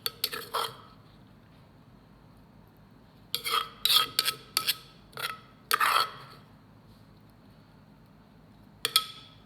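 Metal spoon clinking and scraping against a mortar and a plate as papaya salad is spooned out: a few clinks near the start, a quick run of clinks and scrapes from about three to six seconds in, and one more clink near the end.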